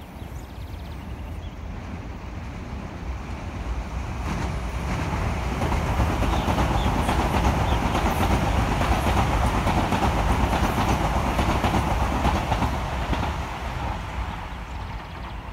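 A train passing on the rail line: its noise swells over a few seconds, holds loud for several seconds, then fades near the end.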